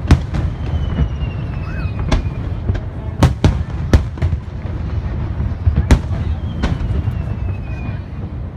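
Aerial firework shells bursting in the sky, about eight sharp booms at uneven intervals, the loudest cluster a little past three seconds in. Two long whistles slowly falling in pitch sound across the booms, and a steady low rumble runs underneath.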